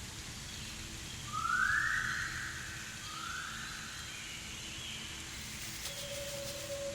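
Two short rising whistle-like tones about a second and a half apart, the first louder, followed near the end by a faint steady tone.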